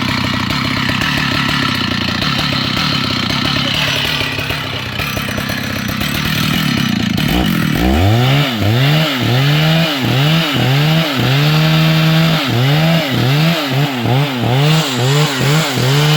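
Two-stroke chainsaw running steadily, then about halfway revved up hard and blipped up and down over and over, about three revs every two seconds.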